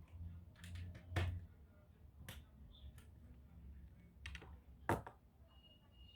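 Scattered sharp clicks and taps of a laptop being worked on by hand, with two louder clicks about a second in and near five seconds.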